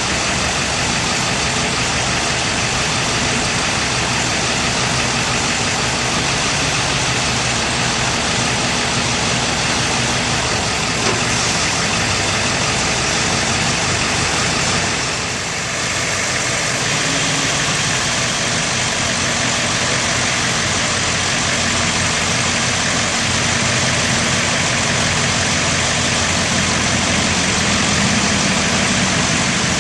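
Bucket truck engine idling steadily, with a brief dip in loudness about halfway through.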